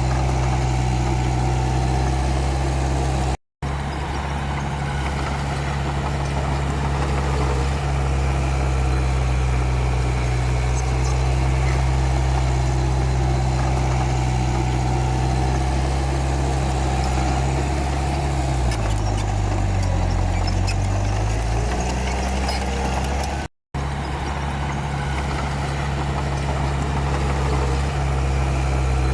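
Komatsu D31P bulldozer's diesel engine running steadily; about two-thirds of the way through its pitch sags for a couple of seconds and then comes back up, as the engine takes load. The sound drops out for an instant twice.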